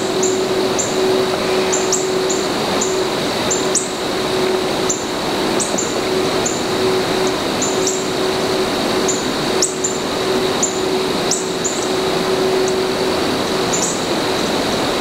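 A small bird giving short, high chip notes again and again, about one or two a second, over a steady hiss with a constant high drone and a low hum underneath.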